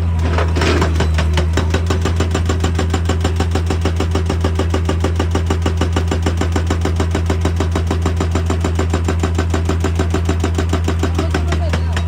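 Excavator's diesel engine running steadily while a hydraulic breaker hammer pounds rock in a rapid, even rhythm, starting about a second and a half in and stopping near the end.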